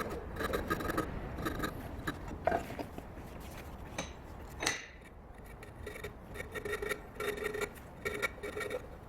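Repeated rasping strokes worked by hand over the steel of a forged axe head, with a slight metallic ring on each stroke. There is a pause partway through before the strokes pick up again.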